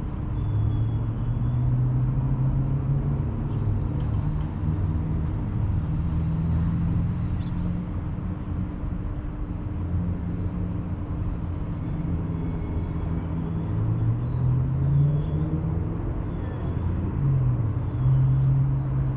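An engine running steadily, its pitch drifting up and down, with faint high chirps repeating over it.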